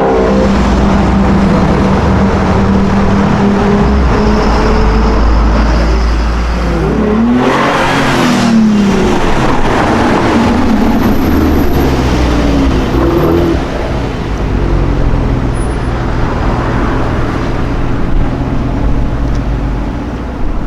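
Car engines in street traffic. A steady engine note runs at first, then a car accelerates hard past about eight seconds in, its engine note rising and falling as it goes by, and another engine revs up about thirteen seconds in.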